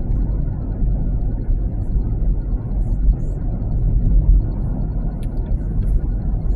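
Steady low road and tyre rumble inside the cabin of a moving Waymo Jaguar I-Pace electric car, with no engine note. A few faint clicks about five seconds in.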